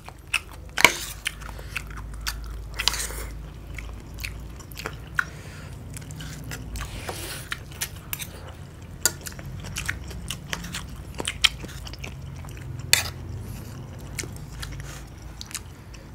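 Close-up sounds of people chewing and biting mouthfuls of fried rice and stewed cabbage, with many short sharp clicks and crunches scattered throughout and a few light clinks of metal spoons on china plates.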